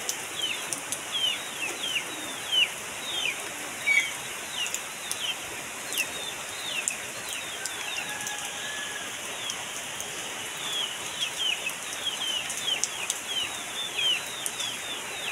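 Rain falling steadily onto a flooded mud yard, a hiss of drops hitting standing water with scattered sharp drip clicks. Over it, birds give short falling chirps, about two or three a second.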